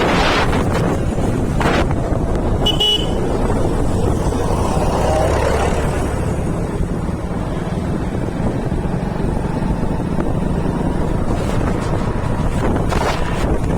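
Motorcycle running along the road with wind buffeting the microphone, and a short high horn toot about three seconds in.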